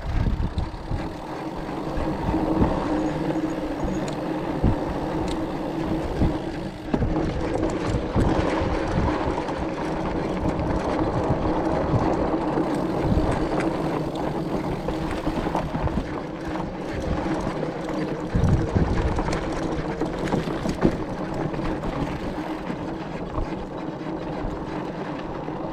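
An electric bike being ridden up a rough dirt road: the motor's steady hum under load, with the tyres crunching and knocking over gravel and rocks, and wind buffeting the microphone.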